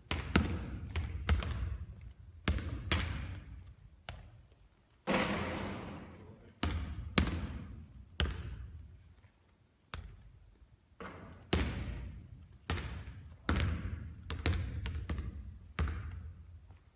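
Basketball bouncing on a court during three-point shooting practice: a run of irregular thuds, each trailing off in echo, with a brighter, longer clatter about five seconds in.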